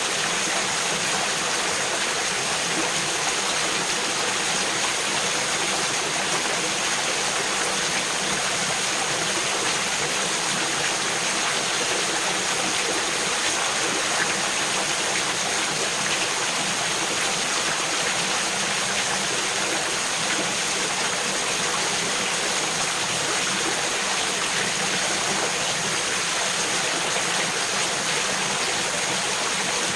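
Mountain stream flowing steadily over a rocky gorge bed, an even rush of water.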